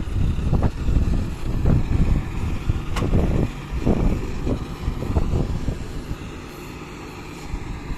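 Diesel engine of a heavy digging machine running and working, an uneven low rumble that swells and eases, with a single sharp knock about three seconds in.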